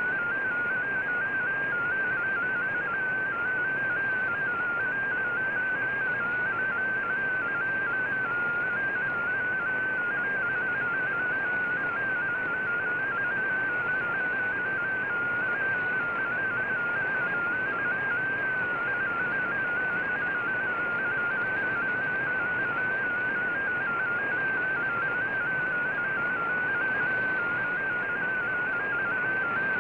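Shortwave MFSK digital data signal heard through an Icom IC-R9500 receiver: a single warbling tone that keeps hopping quickly among closely spaced pitches, over steady band hiss.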